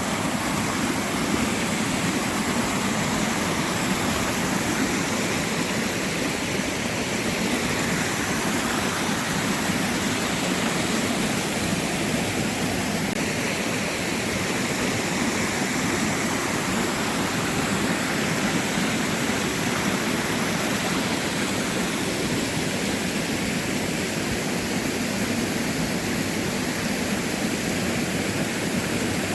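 Waterfall rushing steadily, a loud even roar of falling water swollen by heavy rain.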